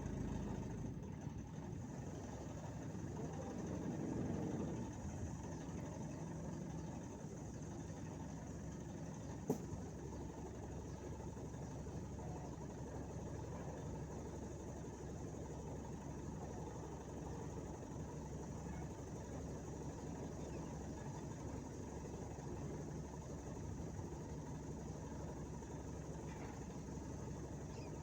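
Steady low engine rumble, with one sharp click about nine and a half seconds in.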